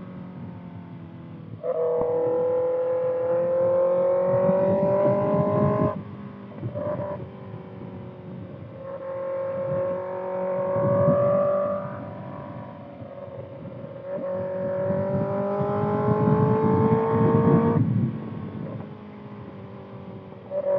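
Kawasaki ZX-6R's inline-four engine through a Voodoo Racing slip-on exhaust, pulling hard three times: each pull a slowly rising engine note that drops off suddenly as the throttle closes, with quieter running in between. Wind noise runs underneath.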